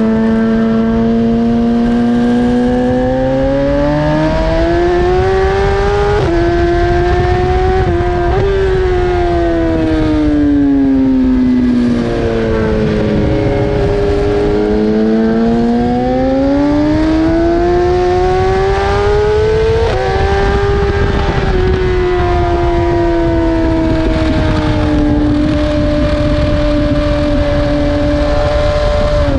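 BMW S1000RR inline-four sport bike engine at racing speed, revving up through the gears with quick upshifts about six and eight seconds in, dropping in revs under braking, pulling hard again with another upshift around twenty seconds, then holding a steady high rev near the end. Wind rush runs under it throughout.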